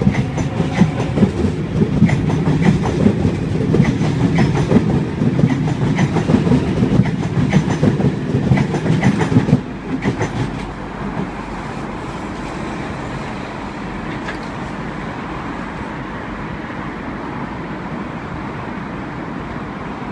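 A Sydney Trains Waratah (A set) double-deck electric train departs and passes close by, rumbling, its wheels clicking over the rail joints. About halfway through, the rumble drops off abruptly as the last cars clear, leaving a steady hum of traffic.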